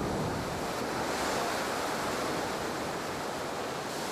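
Rushing water, a steady torrent with no breaks.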